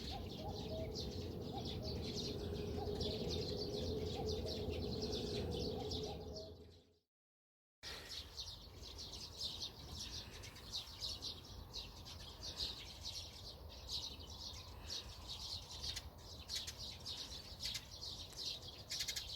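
Many wild birds chirping and twittering together in fast, overlapping calls. Wind rushes underneath for the first six seconds or so, then the sound cuts out completely for under a second before the birdsong carries on over a quieter background.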